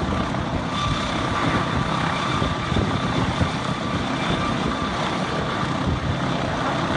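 Helicopter engine and rotor running steadily, with a faint high whine held throughout.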